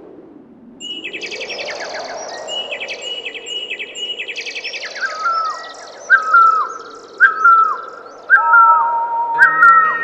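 Birds chirping and trilling over a steady rush of waterfall water; from about five seconds in, a whistled note that falls in pitch repeats roughly once a second.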